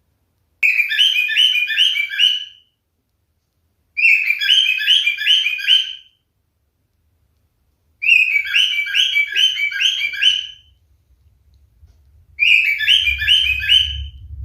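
Pied cockatiel singing: four short phrases a couple of seconds apart, each a quick run of five or six repeated whistled notes. A low rumble starts up near the end.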